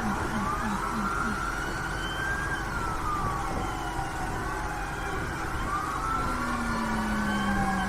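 Several emergency vehicle sirens wailing together, each rising and falling slowly, over a steady low engine rumble. A low, fast-pulsing tone sounds for the first second and a half, and a long low tone holds near the end.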